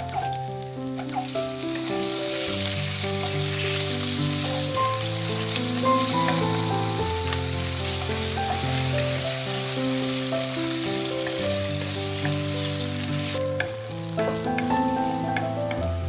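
Chicken breast pieces and sliced onion sizzling in hot oil in a non-stick frying pan as they are stirred with a wooden spatula, over background music. The sizzle swells about a second in, as the chicken goes into the pan, and falls away near the end, leaving a few light clicks.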